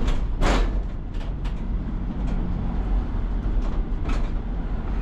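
Cabin noise of a 2006 Sprinter van on the move: a steady low rumble of engine and road. About half a second in there is one short burst of noise, and a few faint clicks follow.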